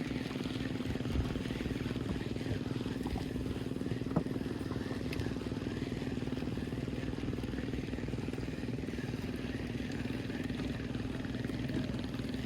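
Small fishing boat's engine running steadily with an even hum, and a couple of faint knocks.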